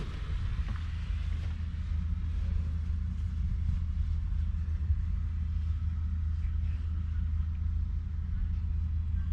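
Kubota M7173 tractor's 6.1-litre four-cylinder diesel engine running steadily with a low rumble.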